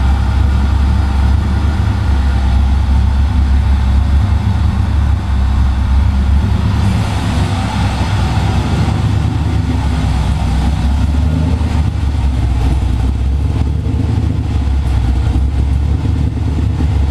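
1993 Mazda RX-7's twin-rotor rotary engine idling steadily while it warms up after a cold start, the idle now settled and solid.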